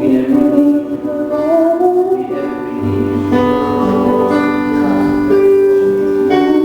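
Worship music: held keyboard chords with a woman's voice singing a wavering melody over them. A low bass note comes in about three seconds in.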